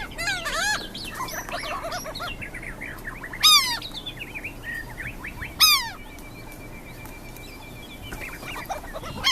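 A flock of seagulls calling: loud cries that slide down in pitch stand out three times, over a busy chatter of softer short calls from other gulls.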